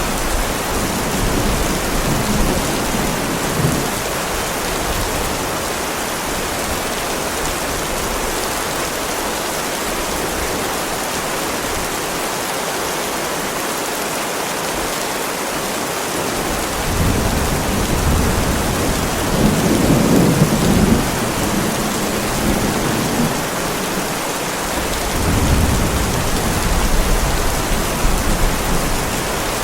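Heavy rain falling steadily on a driveway, with low rolls of thunder rumbling at the start, more strongly a little past the middle, and again near the end.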